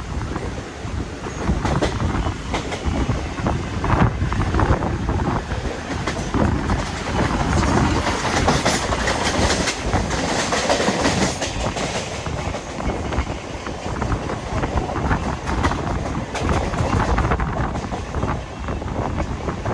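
Mumbai suburban electric local train running on the rails, its wheels clattering over the rail joints in irregular clacks. The rush turns harsher and higher-pitched for a few seconds in the middle.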